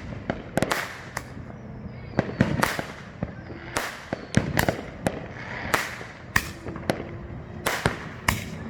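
Consumer fireworks going off all around: about a dozen sharp, irregular bangs and reports in quick succession, some with a short echo after them.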